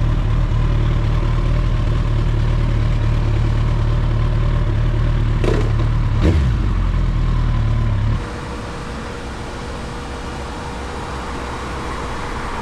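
Motorcycle engine running steadily, with two brief swooping sounds a little past the middle. About eight seconds in, the sound changes abruptly to a quieter steady hum.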